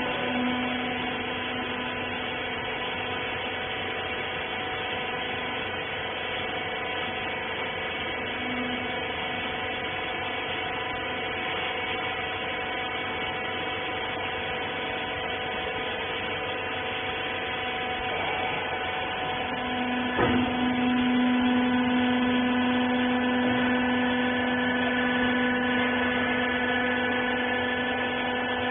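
Hydraulic rag baler's power unit (electric motor and pump) running with a steady hum and whine. About twenty seconds in there is a knock, and the low hum becomes louder.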